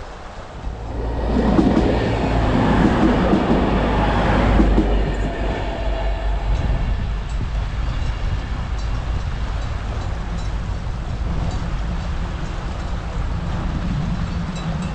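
Diesel train passing close by: a loud rush of wheels and running gear swells up about a second in and eases after about five seconds, leaving a steady low drone.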